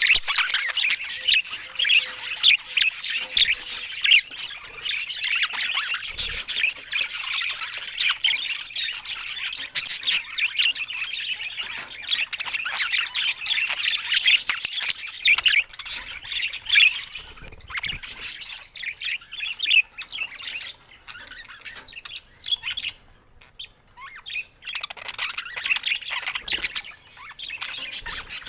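Budgerigar chatter: a fast, continuous warble of chirps and squawks. It thins to a short lull late on, then picks up again.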